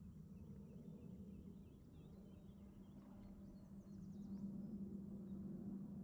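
Songbirds singing faintly in woodland: a string of quick chirping notes in the first half, then a faster run of higher sweeping notes a little past the middle, over a low steady hum.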